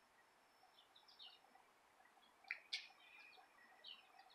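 Faint bird chirps over near-silent background: a few short chirps about a second in, a louder cluster with a sharp click a little past the middle, and another chirp near the end.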